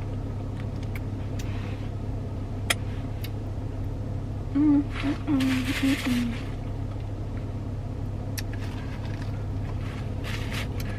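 Steady low hum of a car idling, heard from inside the cabin, with scattered light clicks and rustles of a plastic takeout bowl being handled. A brief murmur of a voice comes about halfway through.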